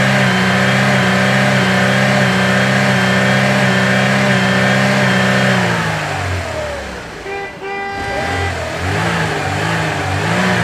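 Tractor engine sound running at a steady drone, then dropping in pitch about six seconds in. Two short beeps follow, and then the engine note wavers up and down.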